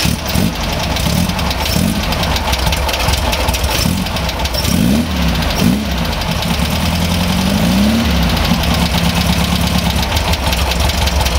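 Newly installed air-cooled VW flat-four engine with dual carburetors running just after its first start. The throttle is opened by hand, so the revs rise and fall a few times in the middle before it settles to a steady idle that is a little low, with the carburetors not yet balanced.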